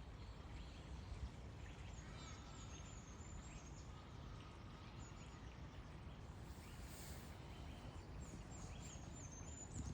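Faint outdoor background noise with small birds chirping, high thin stepped calls in two short runs, a couple of seconds in and again near the end.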